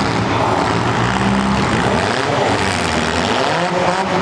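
Several compact demolition-derby car engines revving hard together, their pitch rising and falling over a dense wash of noise.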